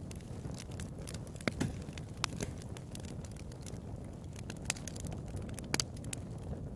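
Wood fire burning in a fireplace: irregular crackles and sharp pops of the burning logs over a steady low rumble of the flames.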